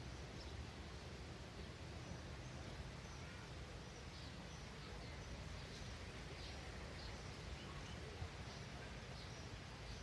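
Small birds chirping, many short faint calls scattered throughout, over a steady low background rumble.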